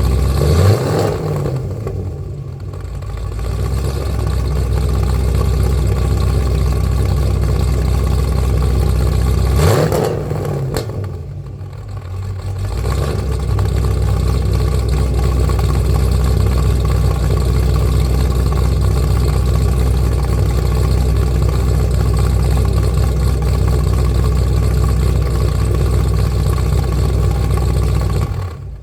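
Cadillac CTS-V's V8 running through Flowmaster mufflers: revved briefly twice, about nine seconds apart, dropping back to a steady idle each time. The sound cuts off abruptly at the very end.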